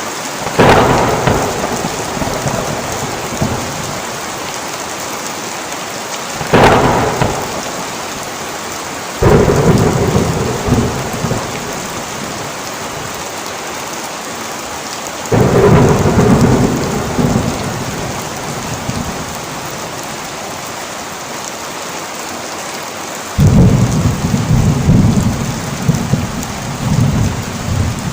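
Heavy rain falling steadily, with five peals of thunder spread through it, each breaking suddenly and rolling on as a rumble for several seconds.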